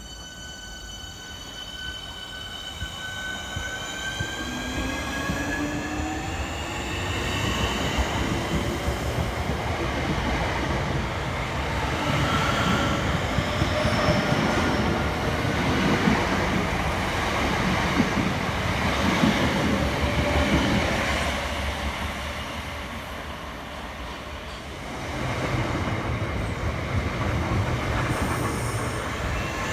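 Electric multiple-unit train running through the station. A whine rises in pitch over the first few seconds. The running noise then builds and is loudest in the middle, fades, and picks up again near the end.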